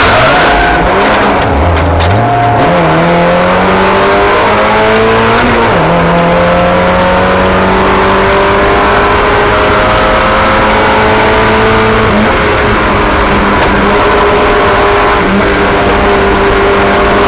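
Race car engines running hard. Their pitch drops about a second in, with a skidding noise, then climbs in steps as they accelerate and holds fairly steady at speed.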